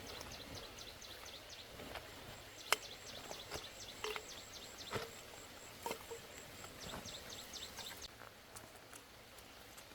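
Outdoor animal chirping: a fast run of short high chirps, several a second, with a steady high trill joining partway through. Both stop about eight seconds in, and a few sharp knocks sound along the way.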